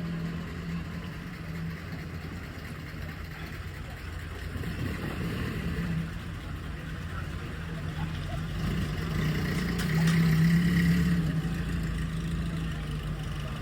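A car engine running, with a steady low hum that grows louder about ten seconds in before easing off, over street background noise.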